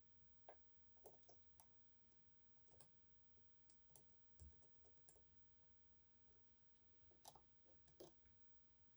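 Faint, irregular small metallic clicks and ticks of a pick hook and tension wrench working the sliders inside an EVVA 3KS high-security lock while it is being picked.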